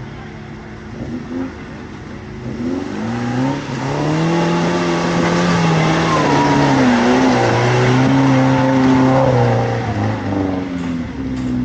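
Off-road 4x4 engine revved hard and unevenly, its pitch rising and falling again and again, building from about three seconds in and easing off near the end as the vehicle works under load through a slippery obstacle.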